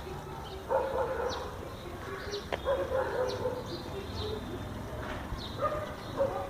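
Puppies giving short, repeated yips and whimpers as they play.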